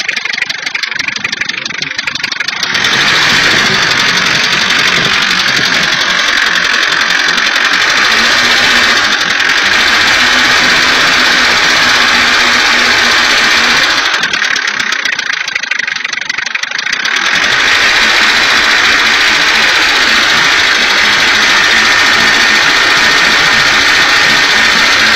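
Nissan Terrano engine running with a loud, rapid metallic clatter, the rattle the owner is pointing out as an engine fault. The clatter eases briefly just past halfway, then comes back.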